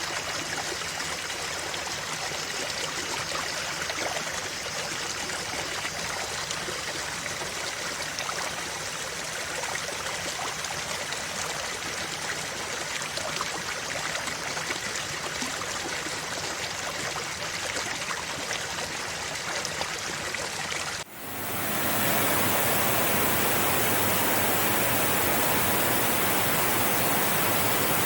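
Flowing stream of water, an even rush with fine babbling detail. About three-quarters of the way through it cuts out suddenly and gives way to a louder, smoother rushing noise like a waterfall or white noise.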